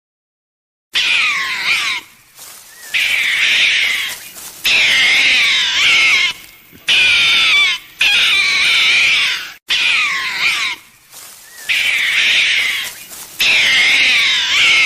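A series of loud, high-pitched animal calls, each one to two seconds long and wavering up and down in pitch, in quick succession with abrupt cuts between them.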